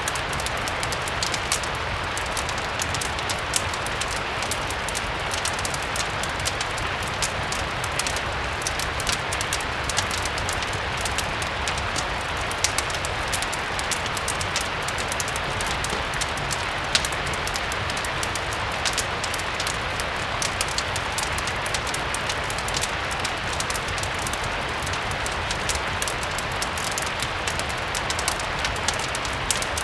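Steady rain falling, with frequent small crackles and pops from a fireplace scattered through it over a low rumble.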